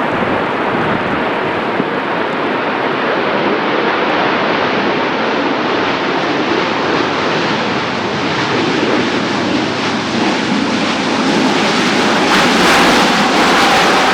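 Airbus A380 jet engines during landing: a steady, loud rushing noise with a faint whine, growing louder and harsher about twelve seconds in.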